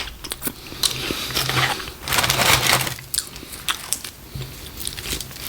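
Close-miked crunching and chewing of crispy cinnamon twists: a quick, irregular run of crisp crunches and crackles.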